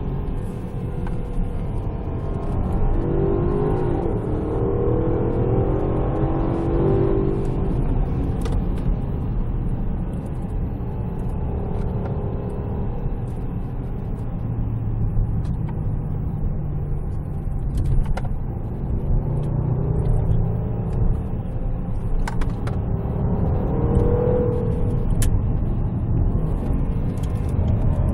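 2014 Range Rover Sport's supercharged 5.0-litre V8 driving on the road, a steady low engine and road rumble. The engine note rises as it accelerates, about three seconds in and again near the end.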